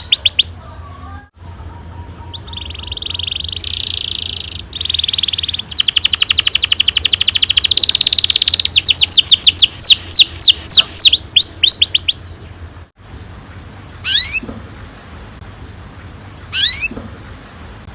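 Domestic canary singing: buzzy trills, then a long, loud roll of fast repeated notes lasting about six seconds that stops about twelve seconds in. Single short rising chirps follow near the end, over a steady low hum.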